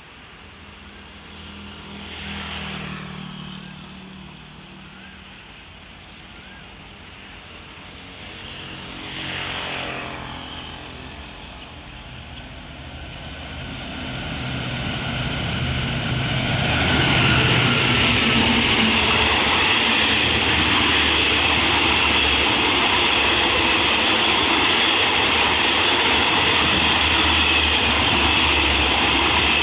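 Diesel-electric locomotives working in multiple approach as a low engine drone that swells twice. The passenger train then closes in and passes, a steady loud rush of wheels and carriages on the rails from about halfway on.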